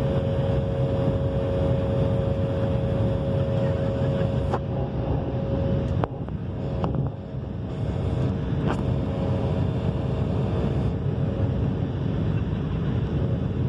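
Jet airliner engines and airflow heard from inside the cabin during the takeoff climb: a steady low rumble with a steady whine running through it. A few light clicks sound about halfway through.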